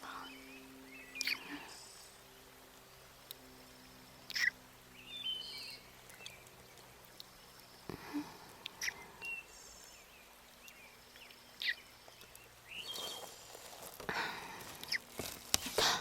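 Outdoor picnic ambience: birds chirping now and then over a faint steady background, with a few soft rustles, the largest about two-thirds of the way in and near the end.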